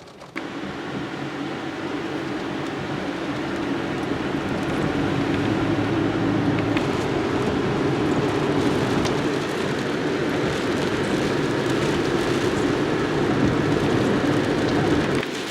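A car being driven: steady road and engine noise with a low hum, starting suddenly and building a little over the first few seconds, then dropping away near the end.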